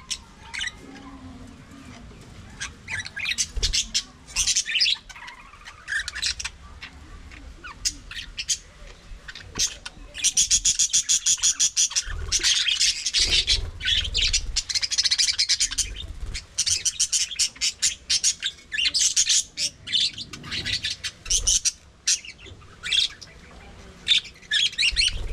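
Budgerigars chirping and chattering, rapid high warbling in flurries with louder stretches of continuous chatter midway.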